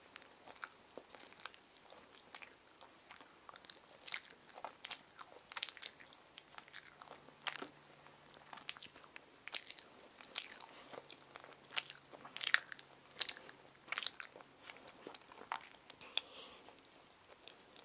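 A young girl chewing a mouthful of soft white-bread sandwich: irregular little clicks and smacks of the mouth, quiet, some sharper than others.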